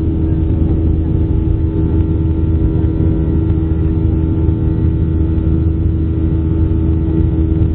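Steady cabin noise inside a Boeing 737-800: the hum of its CFM56 jet engines and air systems, with several steady tones and no rise or fall in pitch.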